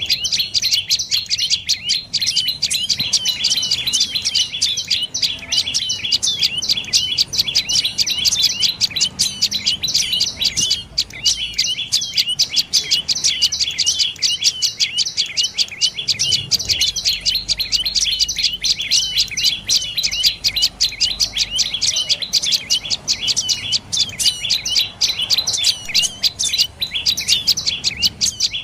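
Dark-necked tailorbird calling: a fast, unbroken series of sharp, high chirping notes, repeated many times a second throughout.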